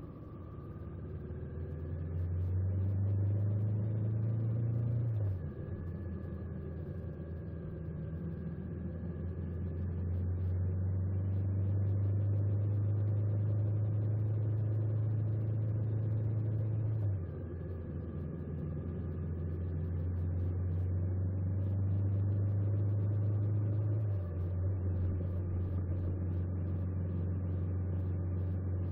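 Honda 400X motorcycle's parallel-twin engine running under way, a steady engine note that builds over the first few seconds, then drops abruptly three times and settles again after each drop.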